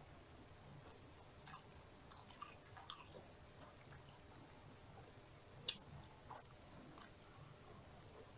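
Close-miked chewing and mouth sounds of a person eating fried fast food: soft wet clicks and small crunches at irregular intervals, the sharpest click a little past halfway.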